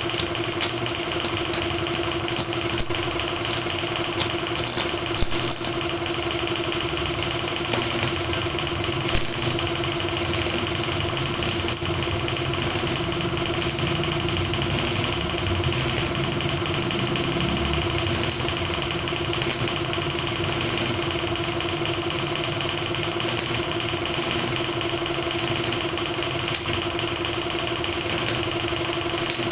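A motor running at a steady, constant pitch, with short scraping hisses breaking in irregularly every second or so.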